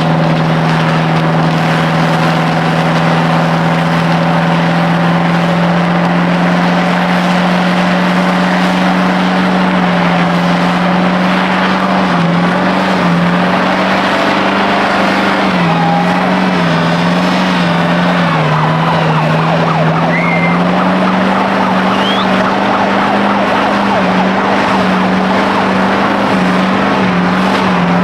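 A diesel truck engine is held at high revs in a long burnout, with spinning tyres making a steady noisy rush. Its pitch is steady at first, then about ten seconds in it climbs a little and wavers up and down as the revs hunt.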